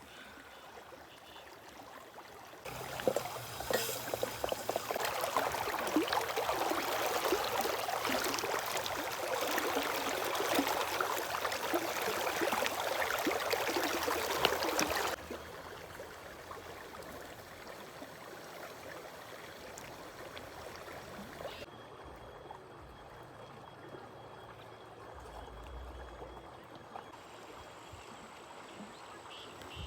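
Flowing river water, with a loud rushing stretch that cuts off sharply about halfway, then a quieter steady flow.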